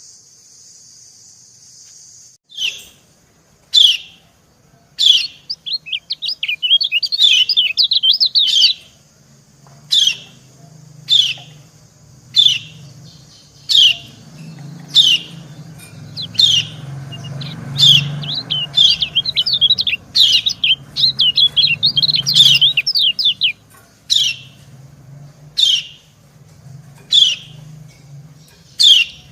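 Kecial kuning (yellow white-eye) 'ciak' calls: after a couple of seconds of steady hiss, short falling call notes come about once a second, with two stretches of rapid twittering between them, female calls answered by a male.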